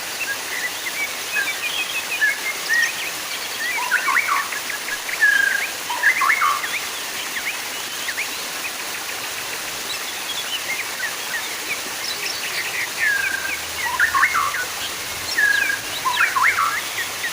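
Steady running water, with small birds chirping and twittering over it in quick flurries, busiest about four to six seconds in and again near the end.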